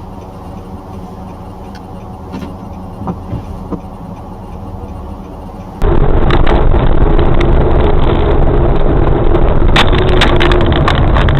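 Dashcam audio of a car on the road: a steady engine and road hum. About six seconds in it cuts abruptly to a much louder, rougher recording of driving noise, full of crackles and pops.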